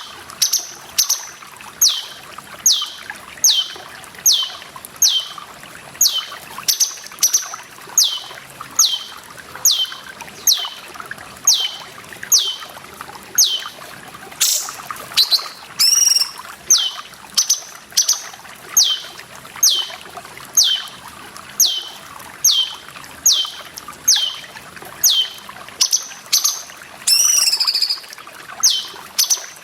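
Cucak cungkok calling: a steady series of short, sharp whistled notes, each falling in pitch, a little more than one a second, with a longer wavering call about halfway and another near the end. A steady trickle of running water sounds underneath.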